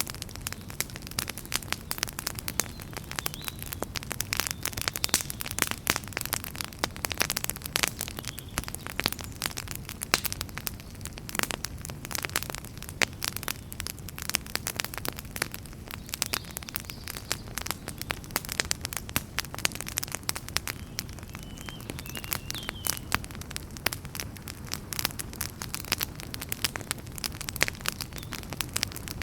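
Wood fire in a fireplace crackling, with dense irregular pops and snaps over a steady low rumble of flame. A faint brief whistle about two-thirds of the way through, as from hissing gas or sap escaping the wood.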